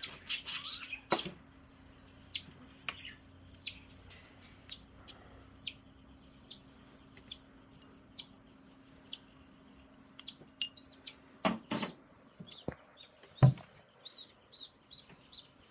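Baby budgerigar chirping over and over, short high chirps about once a second, with a quicker run of softer chirps near the end. A few knocks in the later part, one a louder low thump.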